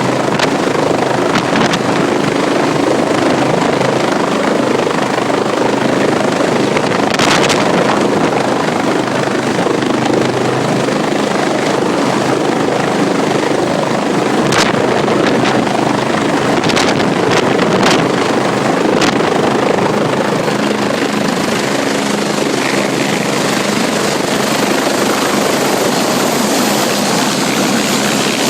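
Agusta helicopter running steadily, its rotor and turbine noise loud and dense, with a few brief sharp knocks. A thin high whine comes in about two-thirds of the way through.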